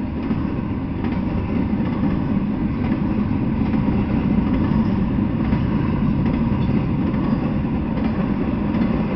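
Double-stack intermodal freight train passing, its wheels on the rails giving a steady low rumble.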